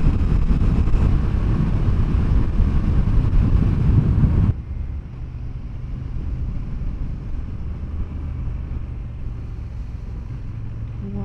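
Motorcycle on the move: engine rumble and wind noise on the microphone, loud at first, then dropping suddenly about four seconds in to a quieter, steady engine drone.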